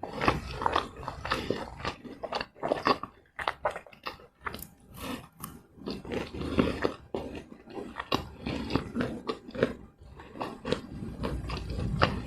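Close-miked biting and chewing of fried snacks: irregular crunches and clicks, one after another.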